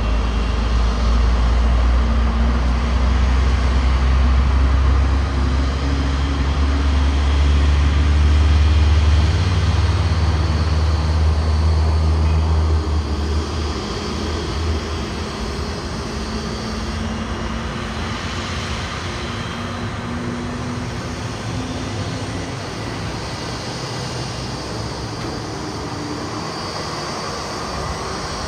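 Airliner ramp noise during a Boeing 787-9's pushback and engine start: a steady jet-engine hiss with faint whining tones, under a deep rumble that drops away about halfway through.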